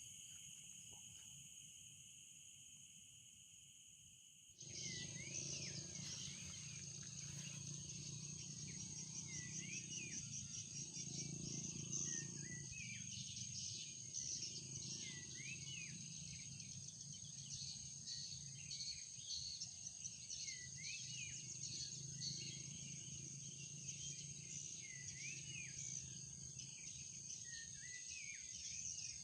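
Forest ambience of insects shrilling steadily at a high pitch, with short rising-and-falling calls repeating every few seconds. The mix changes abruptly and grows louder about four and a half seconds in.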